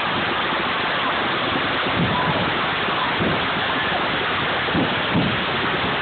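A steady rushing noise with faint brief pitched sounds, like distant voices or whistles, scattered through it.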